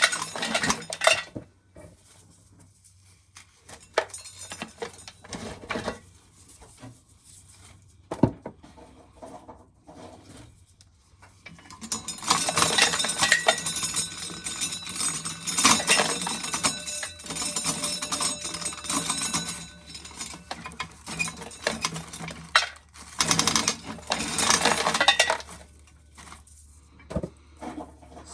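Dry corn kernels being shelled off the cob by hand and clattering into a metal coffee can, in long rattling bursts with quieter gaps and a few single clicks between.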